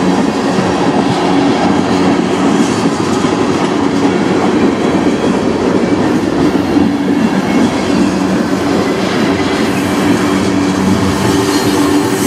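Tank cars of a CN manifest freight train rolling past close by: a steady rumble and clatter of steel wheels on rail, with a steady hum of several low tones under it.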